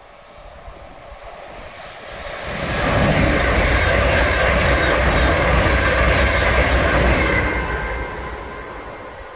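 A Class 350 Desiro electric multiple unit passing through at speed close by. A rushing noise of wheels and air builds over a couple of seconds, stays loud for about four seconds with a faint steady whine over it, then fades as the train goes away.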